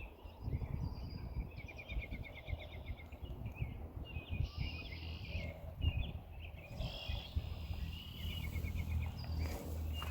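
Songbirds singing outdoors: a short trilled phrase comes back every few seconds among scattered chirps, over a steady low rumble. A brief rustling burst near the end.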